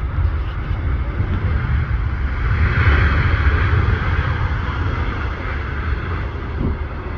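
Jet aircraft engine noise, a broad roar that swells about three seconds in and then eases, over a steady rumble of wind buffeting the microphone.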